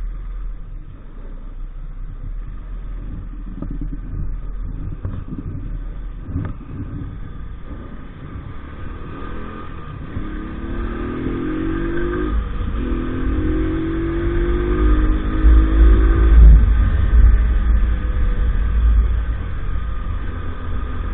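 Small 50cc motorbike engine accelerating: its pitch climbs, breaks off briefly about two-thirds of the way through as if changing gear, then climbs again. Heavy wind rumble on the microphone grows loudest near the top of the second pull.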